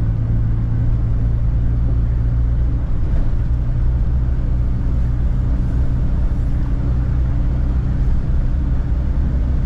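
Morris Minor's engine and road noise heard from inside the cabin while driving, a steady low drone that holds one pitch throughout.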